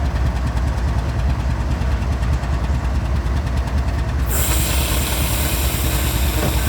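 Diesel freight locomotives idling with a steady low rumble. About four seconds in, a loud, steady hiss starts suddenly over the rumble.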